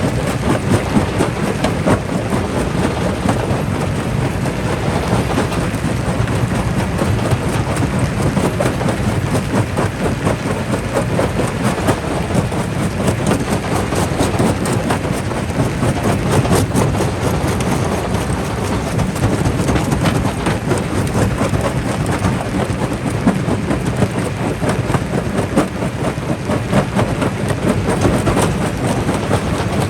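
Quarry jaw crusher running and crushing rock: a steady low rumble with dense, irregular cracking and clattering of stone throughout.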